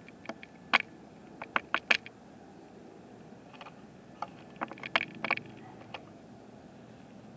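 Irregular sharp clicks and taps in two clusters, about a second in and again around five seconds in, over a steady low hiss.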